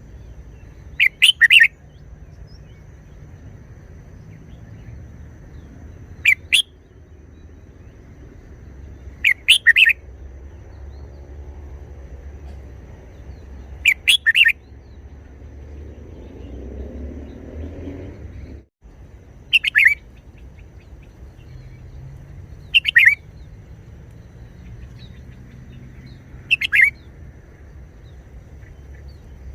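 Red-whiskered bulbul singing short, loud phrases, seven of them spaced a few seconds apart, over a faint low background rumble.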